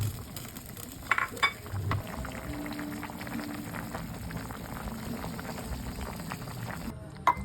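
A pot of beef and meatball soup bubbling at a boil, a dense steady bubbling, with two sharp clinks about a second in and another click near the end.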